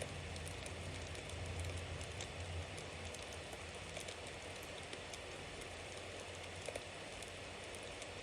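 Bonfire burning: a steady hiss of flames with scattered small crackles of burning wood, a low rumble that eases after about three seconds, and two sharper pops late on.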